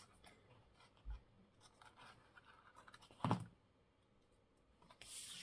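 Faint handling of paper scraps on a craft table: small rustles, a soft thump about a second in, a louder knock about three seconds in, and a brushing slide of paper near the end.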